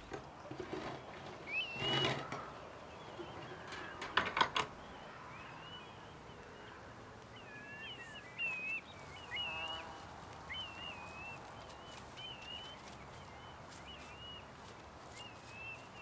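Small birds chirping, with short twittering calls repeated over and over against quiet outdoor background. A cluster of sharp clicks and knocks, the loudest sound, comes about four seconds in, with a fainter one about two seconds in.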